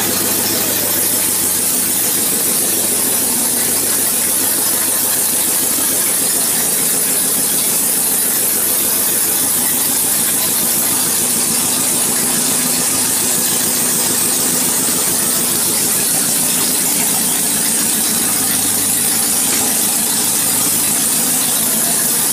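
Rover V8 engine running steadily at idle on its first run after decades laid up, with a steady high-pitched hiss over the engine note.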